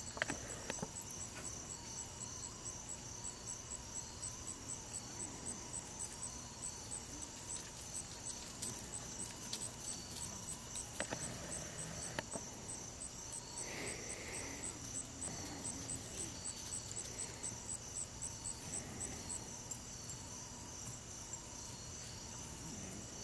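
Insects chirping in a steady, high-pitched pulsing rhythm, about three chirps a second, with a few faint knocks.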